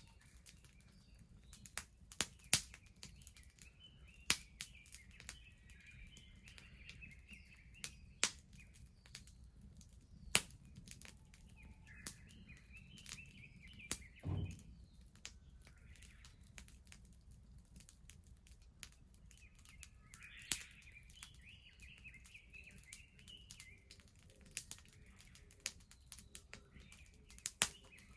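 Wood bonfire crackling, with sharp pops now and then and a dull thud about halfway through. Small birds chirp in short bursts behind it.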